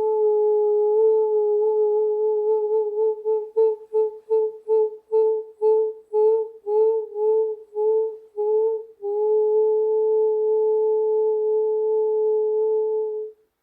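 A sustained, nearly pure tone held at one pitch; for several seconds in the middle it breaks into short pulsed notes, about two a second, some scooping slightly in pitch, then holds steady again and cuts off abruptly near the end.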